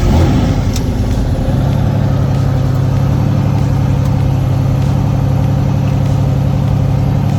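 Helicopter engine starting up with the rotor beginning to turn. The pitch shifts for about the first second and a half, then settles into a loud, steady run.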